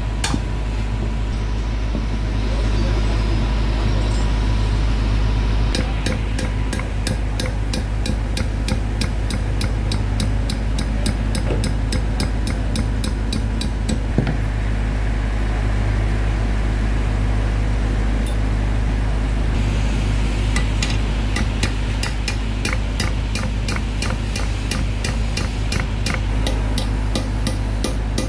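A steady low machine hum under fast, evenly spaced sharp taps, several a second, like a hammer on metal. The taps thin out in the first few seconds and again in the middle, then resume.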